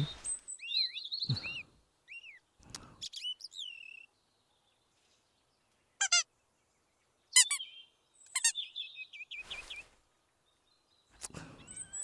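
Birds chirping and tweeting in short separate calls with silences between, including quick rattling trills about six and seven seconds in. A short burst of hiss comes near the end.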